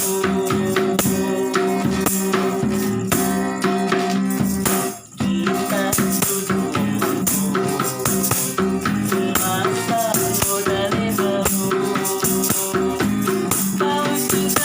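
Street busker's music: plucked strings with a jingling rattle or tambourine keeping the beat. It briefly drops out about five seconds in.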